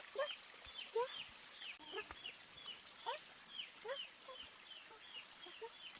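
Chickens calling: many short, high, falling peeps, two or three a second, with lower calls in between. A faint steady high whine lies under them.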